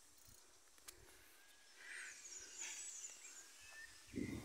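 Faint bird chirps: a short call about two seconds in, then a quick high twittering series, and a brief rising note. Near the end comes a low rumble of the phone being handled.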